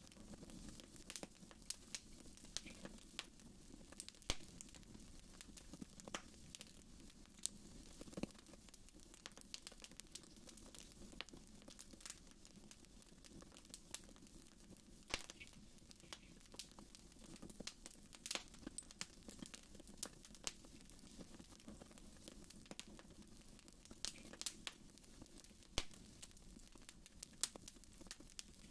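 Wood fire crackling in a fireplace: irregular sharp pops and snaps, some louder than others, over a faint steady low background.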